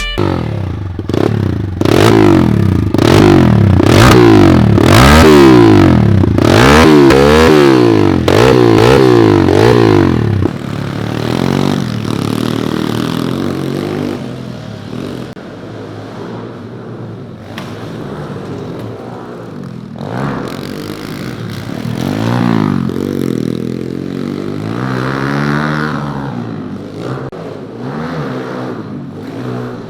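Pit bike engines revving up and down in quick, repeated sweeps as the bikes ride the track. The engines are loud and close for the first ten seconds, then drop farther off, with another rise and fall near the end.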